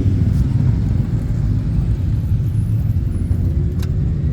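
Motorcycle engines running over a heavy low rumble, with one engine's note rising towards the end.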